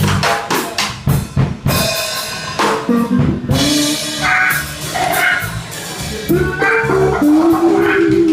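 Live electric blues band (guitars, bass guitar and drum kit) playing an instrumental passage, the drums to the fore. A busy run of drum hits fills the first couple of seconds, then guitar notes ride over the bass and drums.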